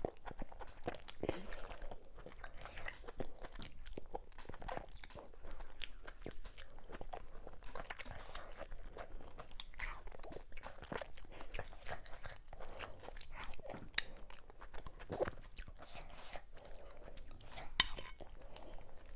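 Close-up eating sounds from a meal of fufu, okra soup and cow meat: chewing, with an irregular run of wet mouth clicks and smacks and a few sharper clicks.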